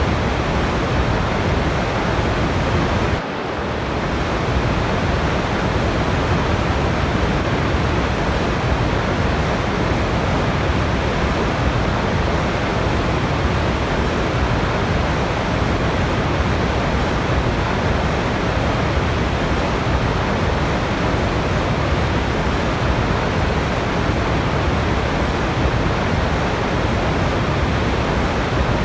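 Rushing water of a waterfall, a steady dense roar like white noise, with a brief dip in level about three seconds in.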